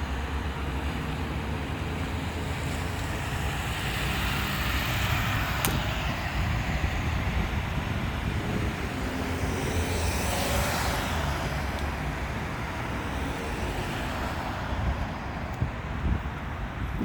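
Road traffic running steadily, with vehicles swelling past about four seconds in and again about ten seconds in.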